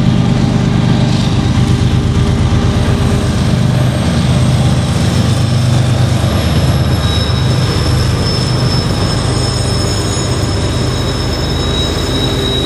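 Union Pacific GE ES44AC (C45AH) diesel locomotives passing close by, their engines running with a deep drone. A steady high-pitched wheel squeal from the train comes in about halfway through and grows stronger near the end.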